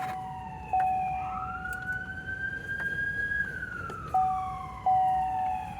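A siren wailing slowly up and down, falling, rising over about three seconds, then falling again. Over it a steady electronic tone comes on with a click about a second in and twice more near the end.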